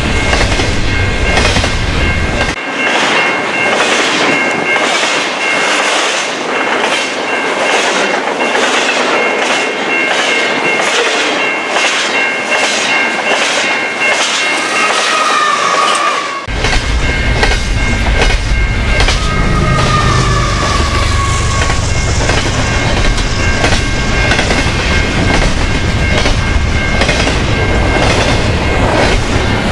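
Long double-stack intermodal freight train passing at track speed: a steady rumble with rhythmic clickety-clack of the cars' wheels over rail joints. The mid-train distributed-power locomotive, a GE ES44AC, goes by about halfway through.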